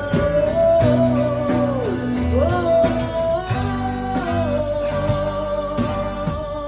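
Live band playing the instrumental ending of a ballad: guitars over held bass notes, with a sustained lead melody line that bends down and back up in pitch about two seconds in.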